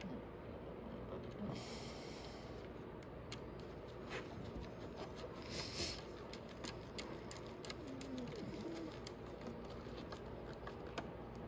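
Faint small clicks and handling noises of a bolt and washer being fitted and tightened into a motorcycle battery terminal, with a short scraping hiss around the middle.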